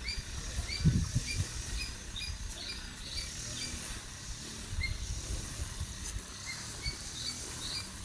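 A bird giving short, squeaky rising chirps in a steady series, about two a second, over low rumbling noise on the microphone that is loudest about a second in.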